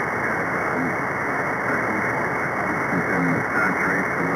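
Single-sideband radio receiver hiss and static on the CB free band, with a faint, garbled voice breaking through the noise a couple of times.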